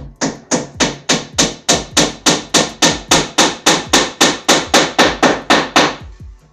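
Hammer striking wooden dowels into the end of a board in a fast, even series of blows, about four a second, stopping shortly before the end.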